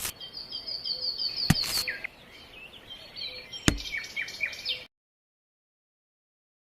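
Small birds chirping in quick repeated series, with three sharp knocks. The sound cuts off to total silence about five seconds in.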